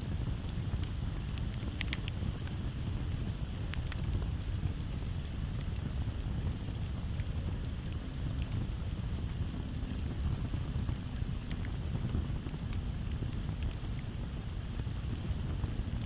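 Campfire burning with scattered sharp crackles and pops over a steady low rumble, and a steady high chirring of crickets in the background.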